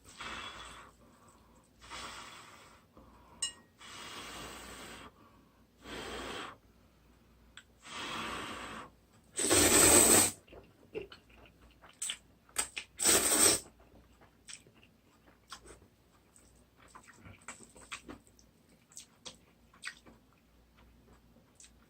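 Instant ramen noodles being slurped in a run of breathy sucks about every two seconds, with two longer, louder slurps about ten and thirteen seconds in. Small wet clicks and smacks of chewing fall in between.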